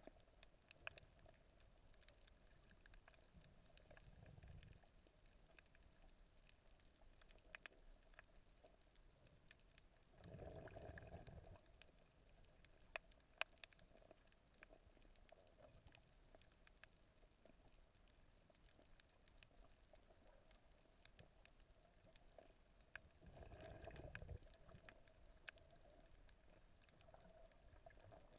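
Very faint underwater sound of a snorkelling camera: scattered sharp clicks and ticks, with three brief swells of low water rushing.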